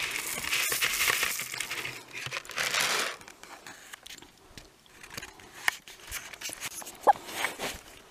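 Crunching, crinkling noise for about three seconds, then a few soft clicks and a short chicken call near the end.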